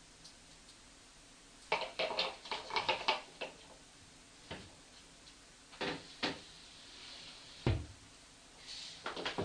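Household knocks and clatter. A quick run of light clicks and knocks comes about two seconds in, then scattered single knocks, a dull low thump, and a few more clicks near the end.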